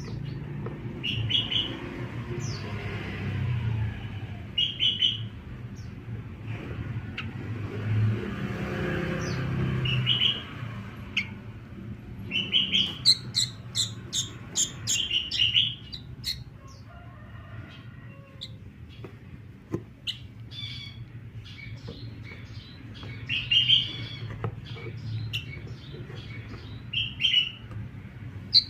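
Sooty-headed bulbul chirping in short bursts of quick, high notes, with pauses between the groups, over a steady low background rumble.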